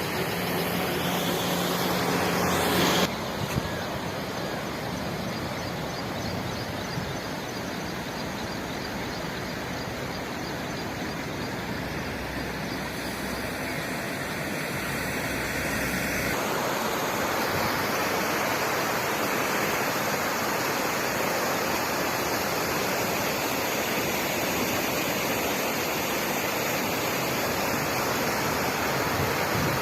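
Flash-flood water rushing, a loud steady roar. A steady engine hum runs under it for the first three seconds, and the sound shifts abruptly twice, about three seconds in and about halfway through.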